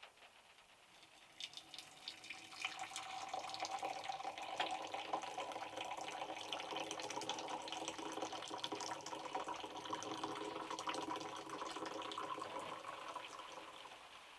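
Water running from a tap into a sink or container for about ten seconds, starting a couple of seconds in and fading out near the end.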